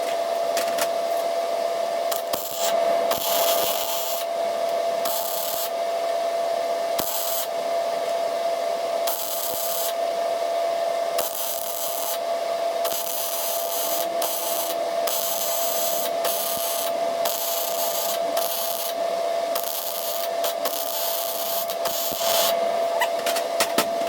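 Welder laying beads on scrap metal: a hissing, crackling arc that starts and stops in short runs of about a second or two, over a steady hum.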